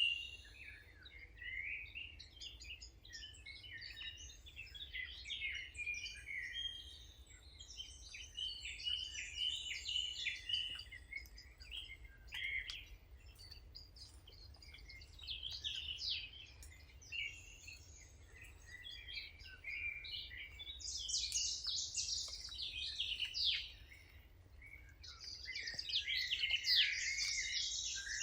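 Songbirds chirping and singing, many short calls overlapping, with busier bursts of song about three-quarters of the way through and again near the end.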